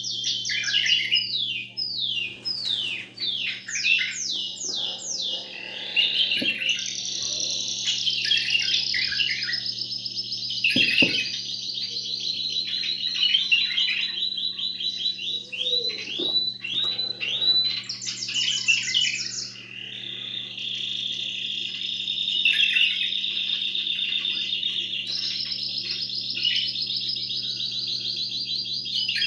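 Domestic canary singing a long unbroken song of fast rolling trills and quick runs of repeated falling whistles, over a faint steady hum.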